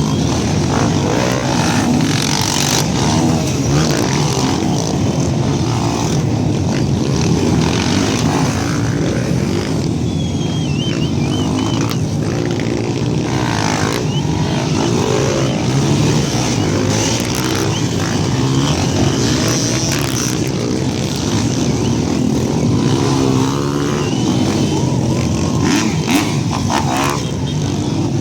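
Many trail motorcycles running and revving together, their overlapping engine notes rising and falling without a break as the bikes set off.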